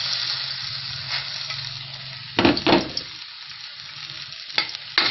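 Garlic sizzling in hot cooking oil in a pan, stirred with a spatula, with a few sharp scrapes against the pan about halfway through and again near the end.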